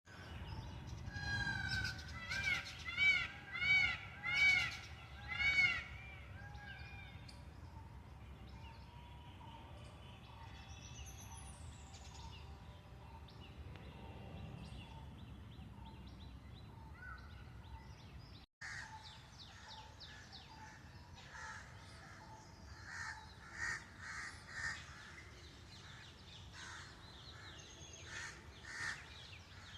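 Birds calling: a quick series of about five loud, arched calls in the first few seconds, then a steady background with many shorter, quieter calls after a brief dropout about 18 seconds in.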